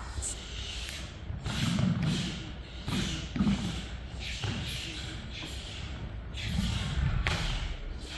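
Irregular soft thumps and shuffling, a few clustered thuds about one and a half, three and seven seconds in, with faint murmuring in a large room.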